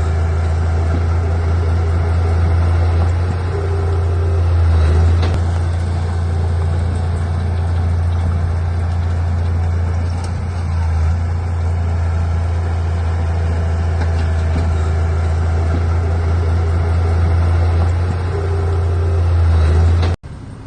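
Heavy earthmoving machine's diesel engine running with a deep, steady drone that swells slightly a few times, then cuts off abruptly near the end.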